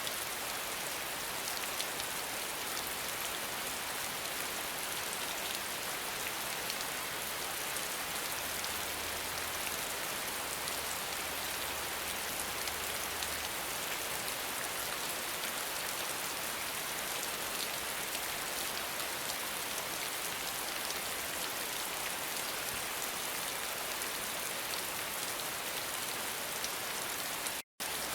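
Steady rain falling: an even hiss with individual drops ticking through it. It cuts out completely for an instant near the end.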